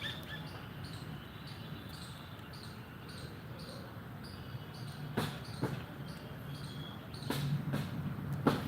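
An insect chirping in a steady rhythm, about two short high chirps a second. A few sharp knocks come in the second half, and a low hum rises near the end.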